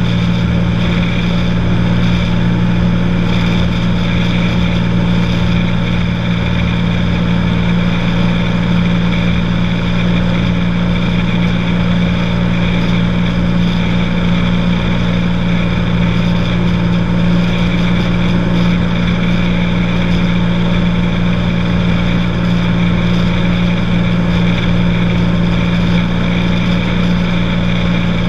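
Cessna 182's single piston engine and propeller droning steadily at an unchanging power setting, a deep even hum with fainter higher tones above it.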